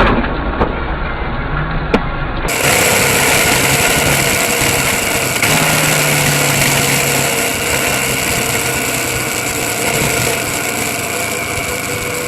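Car on the road: steady engine and road noise, with two sharp clicks in the first two seconds. About two and a half seconds in it cuts to a clearer recording of steady engine hum and road noise.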